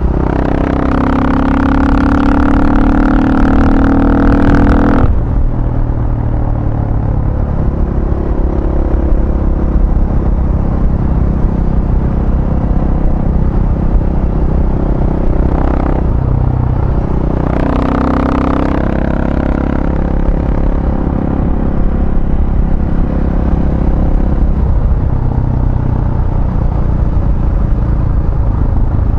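A vehicle engine accelerating hard, its note climbing in pitch for about five seconds before dropping off, then two shorter bursts of throttle later on, over a constant heavy low rumble of wind and road noise.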